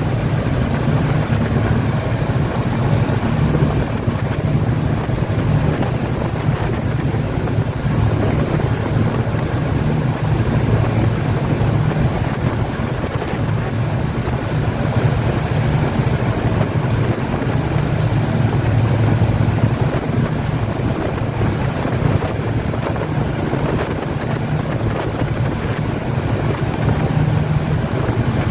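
Speedboat engines running steadily at cruising speed, heard from on board, with a strong low hum, wind buffeting the microphone, and water rushing past the hull.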